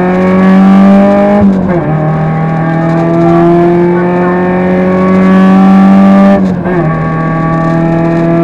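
Rally car engine heard from inside the cockpit, pulling hard with its pitch climbing slowly. Twice the pitch drops sharply for a quick upshift, about a second and a half in and again about six and a half seconds in, before it climbs again.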